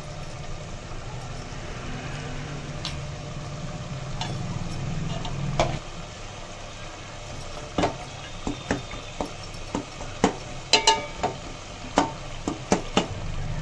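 Onion-tomato masala sizzling as it fries in a metal pot while chopped tomatoes are stirred in with a slotted spatula. In the second half the spatula clinks and scrapes against the pot several times.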